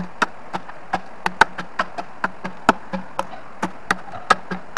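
Rapid knocks of a tool striking bamboo, about four to five a second and uneven in strength, while a bamboo raft is being built, over a steady hiss.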